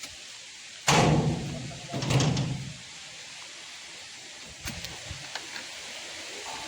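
Two heavy thuds about a second apart, each trailing a short rumble, like oil palm fruit bunches landing, followed by a few light knocks over a steady hiss.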